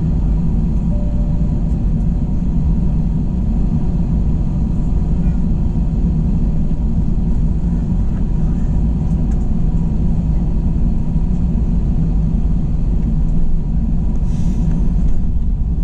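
Steady low rumble of an Airbus A321's running engines and airframe, heard from inside the passenger cabin on the ground before takeoff, with faint steady tones above it. A brief rustle or hiss comes near the end.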